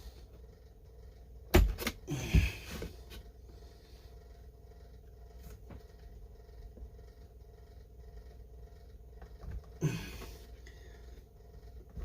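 Workshop handling noises: a sharp knock about a second and a half in, a short scrape just after, and another knock near the end, over a faint steady hum.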